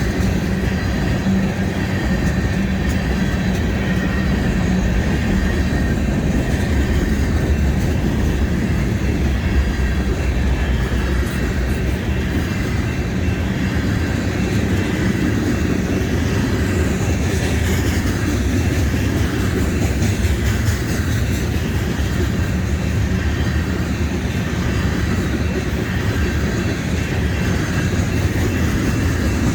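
Union Pacific train rolling past on the rails: a steady, unbroken rumble of railcars going by.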